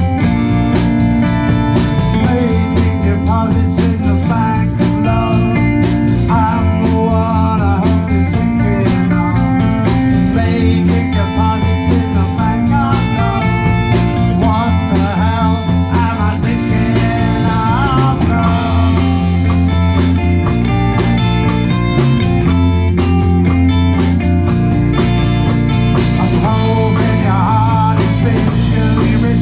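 Live blues-rock band playing: a steady drum beat, bass and electric guitar, with a lead line of wavering, bent notes over the top.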